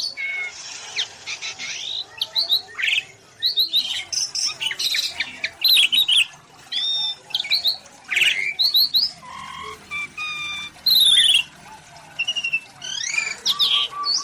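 Many birds calling and singing at once in an aviary: a dense jumble of overlapping whistles, chirps and squawks, with no pause.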